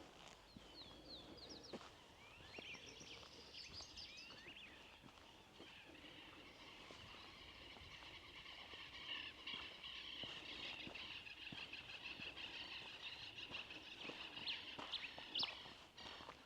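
Wild birds calling: scattered quick chirps at first, then a dense chatter of many birds from about halfway.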